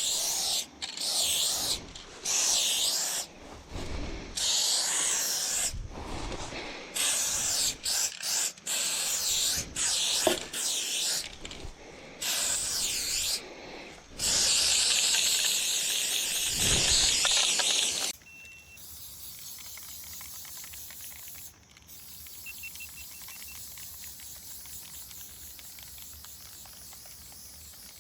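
Aerosol spray-paint can spraying in repeated bursts of hiss: many short spurts, and a longer stream of about four seconds in the middle, with a few low thuds between them. The spraying stops about two-thirds of the way through, and only a quieter steady background hiss remains.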